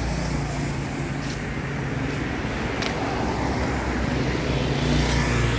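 A motor vehicle running steadily, with a low engine hum under road or traffic noise.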